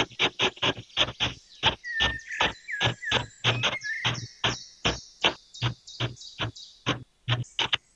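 A tiny hand hoe chopping and scraping into damp sand in quick, even strokes, about four or five a second. A few faint short chirps sound about two to four seconds in.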